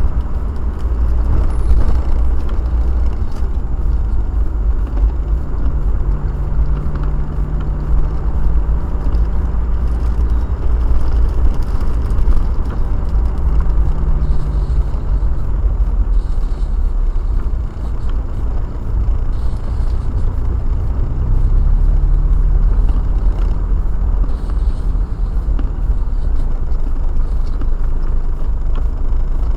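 Car driving, heard from inside: a heavy low rumble of road and engine noise, with the engine note rising and falling a few times as the car speeds up and slows down.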